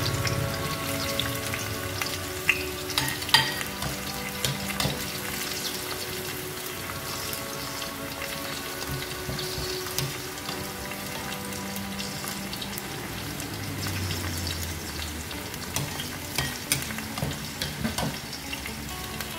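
Bitter melon rings and egg filling frying in oil in a non-stick pan, a steady sizzle. A few sharp clicks of a metal spoon against the pan come about three seconds in and again near the end.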